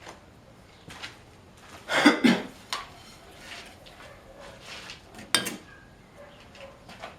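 Metal tools and engine parts clinking and knocking as they are handled, with a louder clatter about two seconds in and a single sharp knock a little past five seconds.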